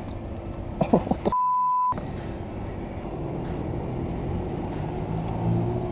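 Motorcycle engine running steadily. About a second in, a brief voice exclamation is cut off by a half-second censor bleep.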